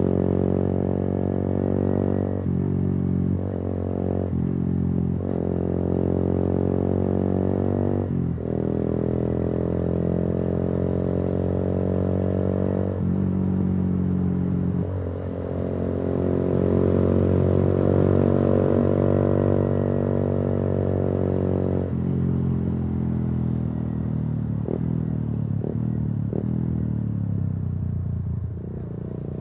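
Yamaha YBR 125G's single-cylinder four-stroke engine running through an aftermarket Akrapovič exhaust while riding. The engine note breaks off and changes pitch several times as the throttle is worked and gears change, and a few short clicks come near the end.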